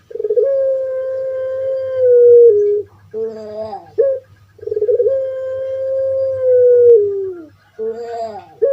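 Puter pelung (a Barbary dove bred for its long coo) cooing: two long held calls of about two and a half seconds each, each dropping in pitch at its end, with a few short falling notes between them. A faint steady hum runs underneath.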